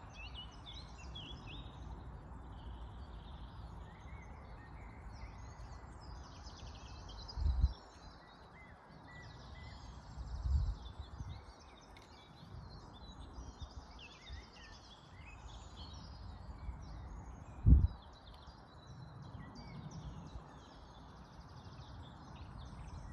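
Several birds chirping and trilling over a steady low outdoor hiss, broken by three brief low thumps, the loudest near the end.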